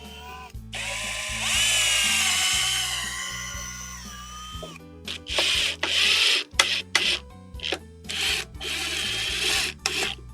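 Power drill on wood: its motor spins up with a rising whine and runs steadily for a few seconds, then goes in a series of short bursts on and off. Background music plays underneath.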